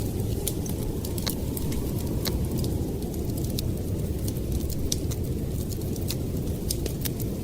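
Blizzard wind as a steady low rumble, with a wood fire crackling over it in irregular sharp pops.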